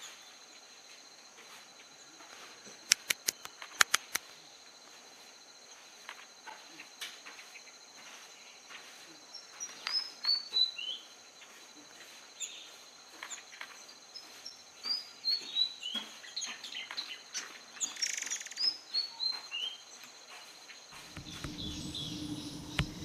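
White-throated fantail singing: several runs of high, thin notes, each run stepping down the scale, over a steady high insect drone. A few sharp, loud clicks come about three to four seconds in, and a low rumble starts near the end.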